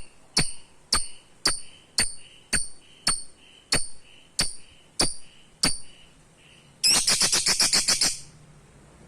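Pet lovebird calling with short, sharp, high-pitched chirps, evenly spaced a little under two a second, then breaking into a fast rattling run of chirps for about a second near the end.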